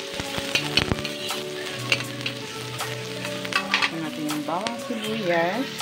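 Chopped onion and garlic sizzling in oil in a stainless steel pan, with a metal spoon clicking and scraping against the pan as it stirs. This is the sautéing of the aromatics for a kare-kare sauce.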